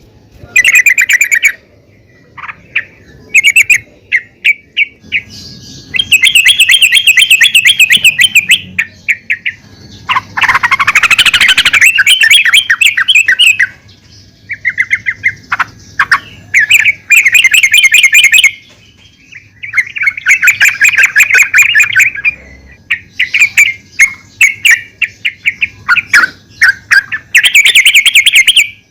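Female yellow-vented bulbul (trucukan) calling loudly: repeated bursts of rapid chattering notes, some phrases running two to three seconds, with short pauses between them and one rising phrase about ten seconds in.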